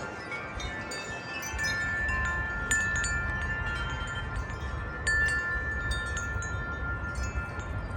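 Several wind chimes ringing in gusty wind, with many overlapping struck tones that ring on long. Sharper strikes come about a third of the way in and again just past the middle.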